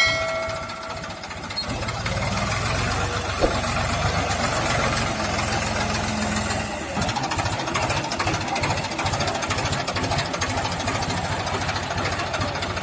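Tractor diesel engine running with a steady low throb, getting louder about a second and a half in.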